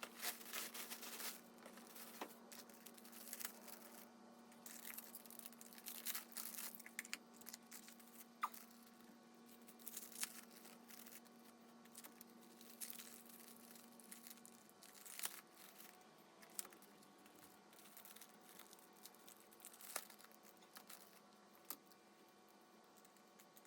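Faint crinkling and rustling of plastic packaging being opened and pulled off planner supplies, with scattered small ticks and taps. A faint low hum runs underneath and stops about two-thirds of the way through.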